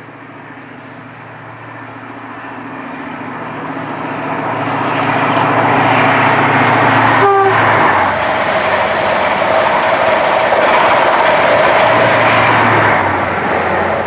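A train approaching and passing at speed, its noise building to a loud, steady rush and falling away sharply near the end. About seven seconds in it gives one brief horn toot.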